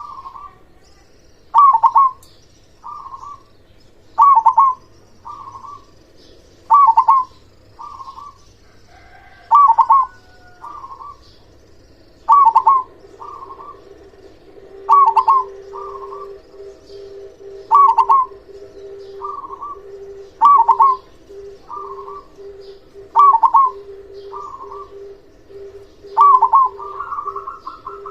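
Local zebra dove (perkutut) cooing its song over and over, with a loud phrase of quick notes about every two and a half seconds, each followed by a softer phrase about a second later.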